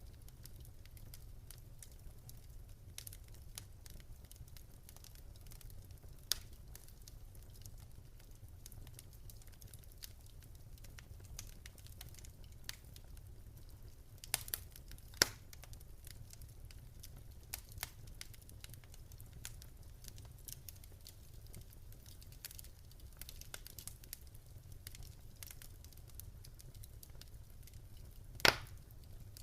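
Wood fire in a fireplace crackling, with frequent small snaps over a low steady rumble of the flames. A few louder pops stand out, the loudest near the end.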